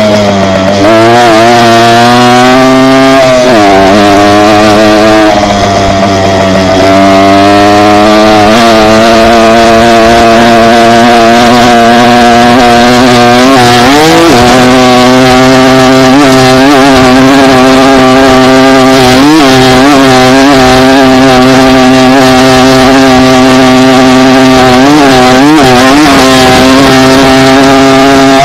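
Dirt bike engine running loud under throttle while riding, its pitch dipping and climbing back as the throttle changes, most clearly a few seconds in and again about halfway through.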